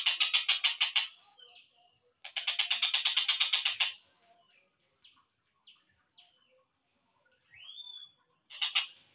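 Stork-billed kingfisher (tengkek buto) calls played back slowed down: a rapid chattering trill of about eight notes a second that stops about a second in, a second trill from about two to four seconds, then scattered short notes, a rising whistled call and a brief trill near the end.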